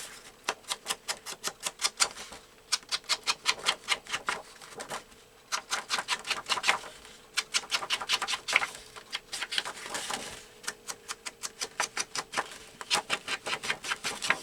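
Rapid, evenly spaced tapping in short runs of about five or six taps a second, with brief pauses between runs: Scorched Timber ink being dabbed onto paper to ink up a collage piece.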